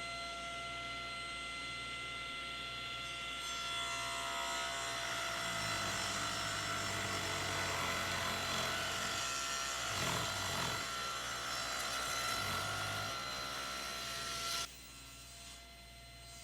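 Table saw running with a steady whine while its blade cuts a taper along a wooden table leg held in a tapering jig; the cutting sound builds a few seconds in and eases off again, and the sound drops off abruptly near the end.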